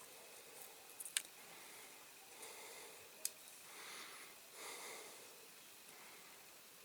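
Masking tape being peeled off a painted diecast metal model body, heard as two soft rasps around the middle, with a few small sharp clicks of handling before them.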